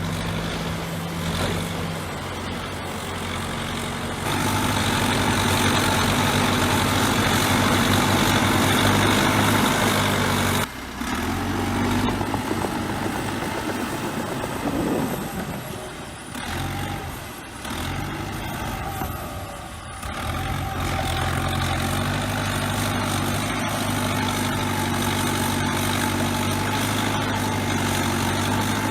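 Bulldozer's heavy diesel engine running under changing load. It rises to a louder, harder-working note about four seconds in, drops off suddenly near eleven seconds, sags twice in the middle, then settles back to a steady strong run from about twenty-one seconds.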